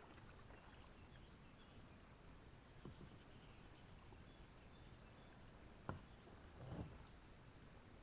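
Faint steady insect chirring in one high band, with a sharp knock just before six seconds in and softer knocks near three and seven seconds.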